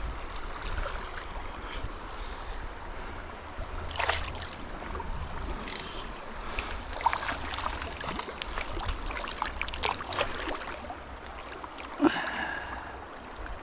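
Small mountain stream running, with wind rumbling on the microphone and a few short sharp sounds scattered through.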